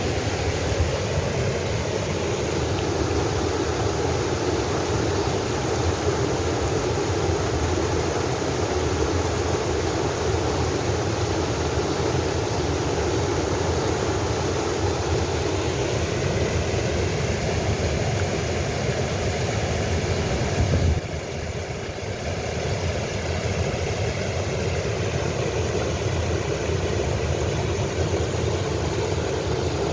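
A mountain valley stream rushing steadily over rocks, a constant hiss with a brief dip about two-thirds of the way through.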